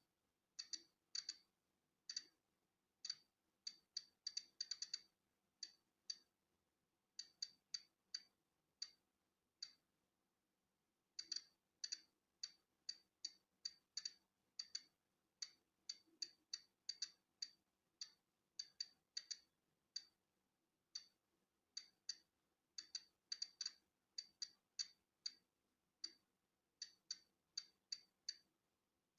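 Polon EKO-C digital Geiger counter clicking at random, uneven intervals, about two clicks a second, bunched in clusters with a gap of nearly two seconds about ten seconds in: each click is a detected count of natural background radiation.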